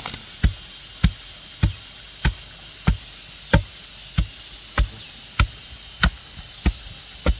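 A hand tool strikes a solid material in a steady rhythm, about a dozen blows, one every 0.6 seconds or so. A constant hiss runs underneath.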